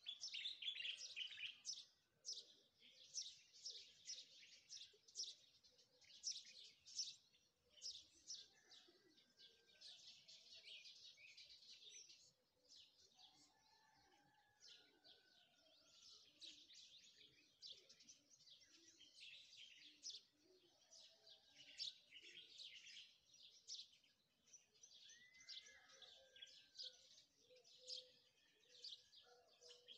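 Birds chirping faintly: a continuous run of quick, high chirps with a few short whistled notes mixed in.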